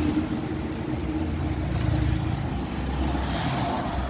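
Low, steady rumble of a motor vehicle's engine running.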